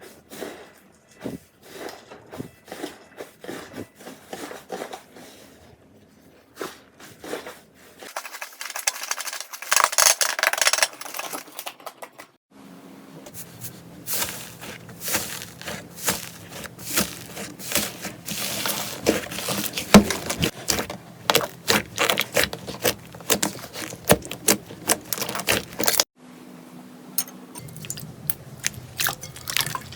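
Slime being squeezed, stretched and poked by hand, giving many small, irregular wet clicks and crackling pops. The sound changes abruptly several times as one clip gives way to the next.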